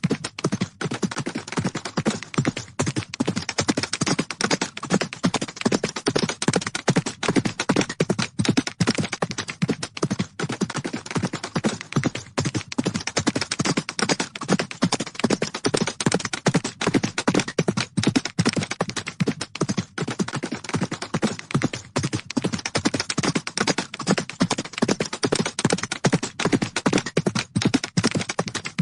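Galloping horses' hooves striking the ground in a fast, dense, unbroken run of hoofbeats.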